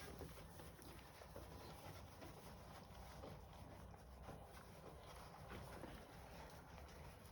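Near silence: a faint background hiss with a low rumble and a few soft scattered ticks.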